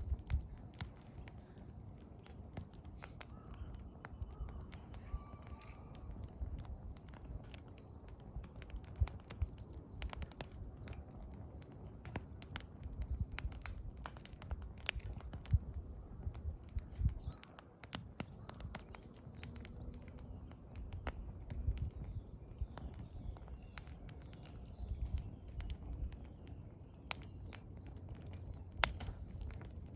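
Firewood crackling and popping in a campfire, with frequent sharp snaps. A wild bird sings short runs of high chirps every several seconds.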